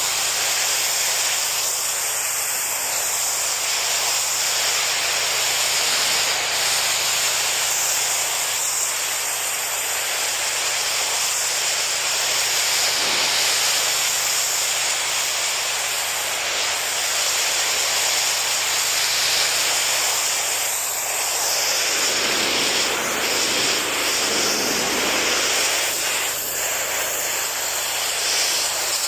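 Pressure washer spraying a high-pressure jet of water, a steady hiss that deepens for a few seconds about 22 seconds in.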